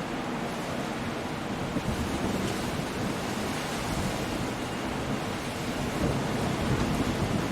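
Coastal storm: surf surging and breaking against rocky cliffs under steady wind and rain. The wash of the waves swells louder about two seconds in and again near the end.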